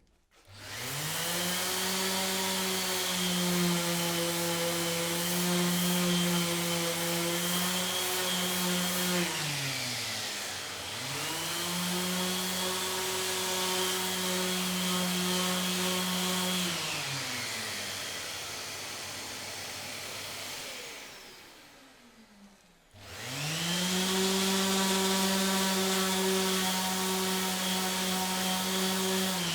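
Handheld electric power tool motor running in three bursts, each spinning up to a steady whine, holding, then winding down; the last run winds down near the end.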